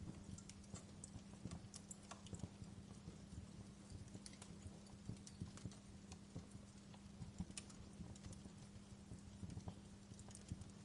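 Wood fire crackling in a fireplace: irregular small pops and snaps, one sharper pop about seven and a half seconds in, over a faint low steady hum.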